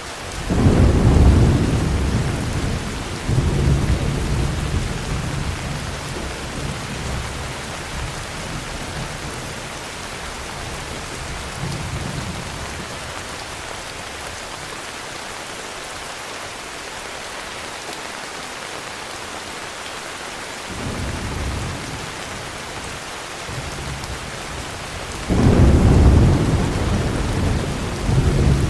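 Heavy rain falling steadily with thunder rumbling through it. A loud deep peal comes right at the start, another rolls in about three seconds later, fainter rumbles come around the middle, and a second loud peal comes near the end.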